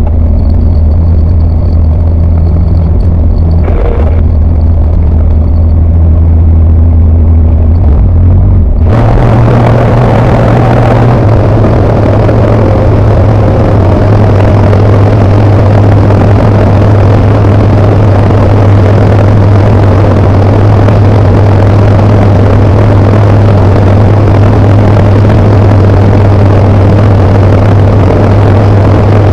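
Tecnam P92 ultralight's engine and propeller running with a steady low drone. About nine seconds in the sound steps up to a fuller, busier note and holds there, as when power is increased.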